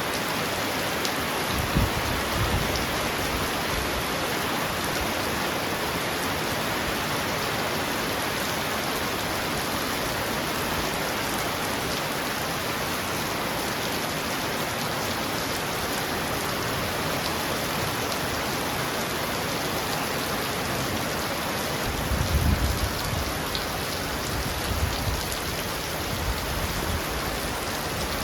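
Heavy rain falling steadily on a roof, an even hiss. Low rumbles of thunder come briefly about two seconds in and again, longer, near the end.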